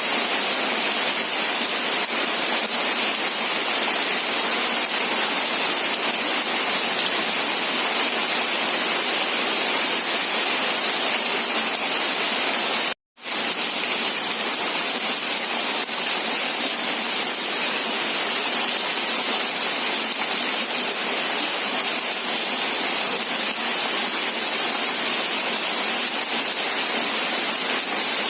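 Steady, heavy rain falling with an even hiss. The sound cuts out abruptly for a split second about halfway through, then resumes unchanged.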